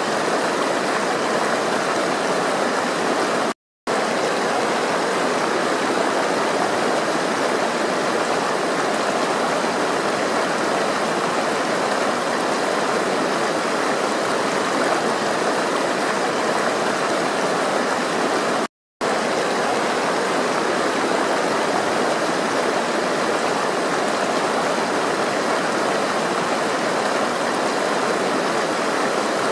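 Flowing water rushing steadily, like a stream, broken twice by a sudden split-second dropout to silence.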